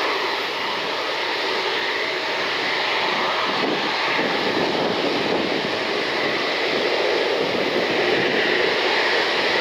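Jet airliner engines, a steady rushing noise without breaks.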